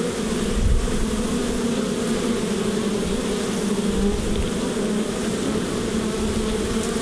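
A mass of honey bees buzzing loudly and steadily, a dense unbroken hum.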